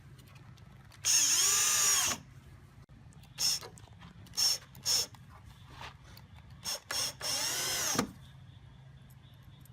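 Power drill run in bursts: a run of about a second, several short blips, then another run of about a second whose pitch falls away as it stops, the way a drill sounds driving fasteners into wood.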